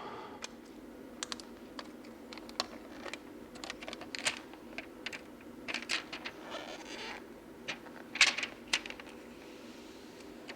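Scattered light clicks and taps of fingernails on the iPad's glass screen while the protective film is peeled off, with a brief soft rustle partway through.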